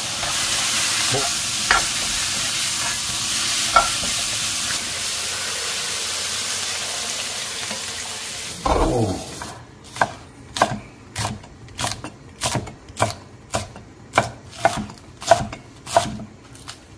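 Dried pollack, radish and shrimp sizzling in perilla oil in a stainless wok, stirred with a spatula that gives a few light scrapes. About eight and a half seconds in, the sizzling cuts off with a brief loud splash as tap water runs into the hot pan. Then a chef's knife chops green onions on a wooden cutting board at a steady pace of about one and a half strokes a second.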